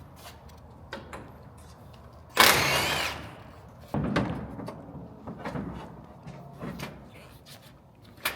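Clicks, knocks and clunks of hand work, with a loud hissing burst of under a second about two and a half seconds in and a heavy thud about a second later.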